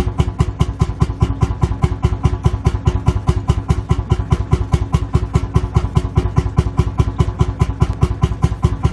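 Lanz Bulldog tractor's single-cylinder two-stroke hot-bulb engine idling, with an even, slow beat of about six firing strokes a second.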